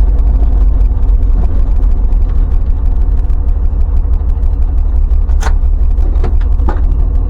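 Car on the move: a loud, steady low rumble of road and wind noise, with a few sharp clicks late on.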